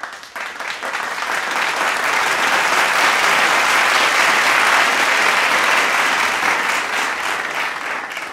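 Crowd applauding, swelling over the first couple of seconds and fading toward the end.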